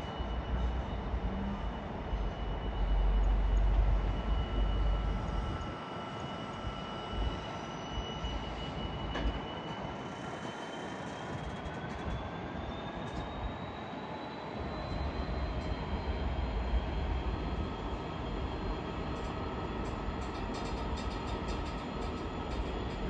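Train running on the track: a steady rumble and rail noise, with a thin high whine that climbs in pitch about halfway through.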